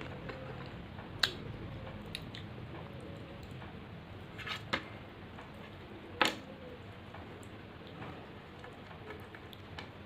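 Close-miked chewing of a mouthful of rice and fish curry, with a few sharp wet clicks, the loudest about six seconds in, over a steady hiss.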